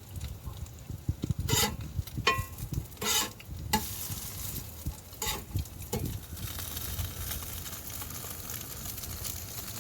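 Hash browns frying in a pan, with a utensil scraping and clinking against the pan several times in the first half, one clink ringing metallically. After that comes a steady sizzle.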